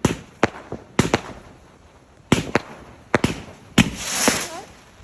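Fireworks exploding overhead: a string of sharp bangs, roughly two a second, with a swelling hiss about four seconds in.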